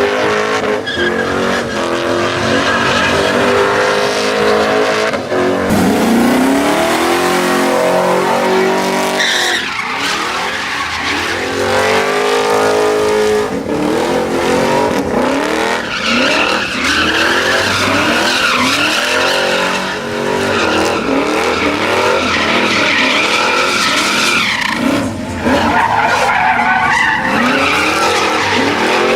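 Truck engines revving hard, their pitch repeatedly climbing and falling, with tires squealing and skidding on pavement during burnouts and donuts.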